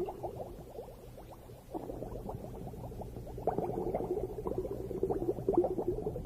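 Underwater bubbling and gurgling: a dense crackle of small pops over a steady low hum, sparse at first and busier from about two seconds in.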